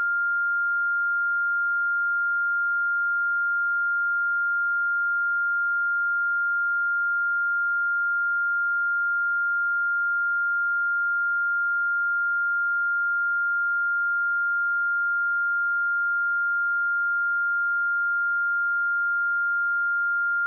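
A steady 1401 Hz sine-wave test tone: one pure high-pitched tone held at a constant pitch and level.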